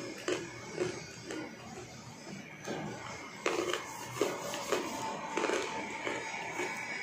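A person chewing food close to the microphone, with short soft chews or bites coming irregularly about every half second. Faint music plays in the background.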